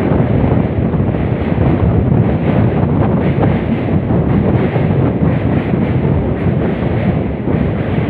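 Steady wind buffeting the microphone from a moving train, with the train's running rumble underneath.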